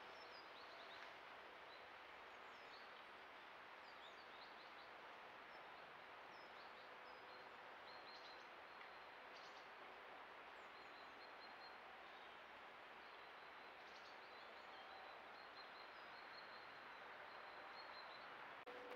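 Near silence: a faint steady hiss with small birds chirping now and then, short high notes scattered throughout.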